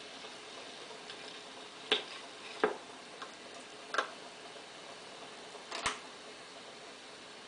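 Vintage Newcomb EDT-15C record player giving steady needle hiss after the song has ended. Four sharp clicks and knocks sound at uneven intervals over it.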